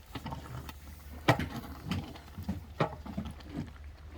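Pumpkin porridge boiling over an oak-wood fire in a traditional fire hole: a low steady hum with a few sharp pops, about one a second.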